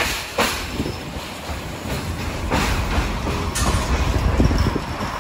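Passenger train rolling along the track, heard from inside a carriage: a steady low rumble with a few sharp knocks.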